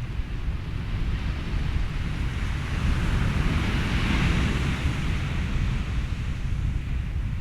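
Ocean waves with wind and white noise over a steady low rumble; one wave surges, building to a peak about four seconds in, then draws back.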